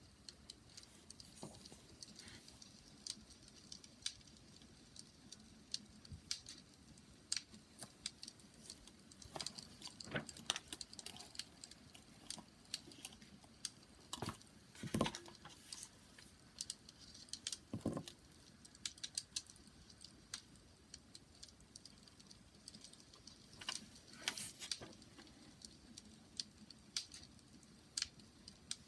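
Wood bonfire crackling: irregular sharp snaps and pops over a faint low hiss, with a few louder pops.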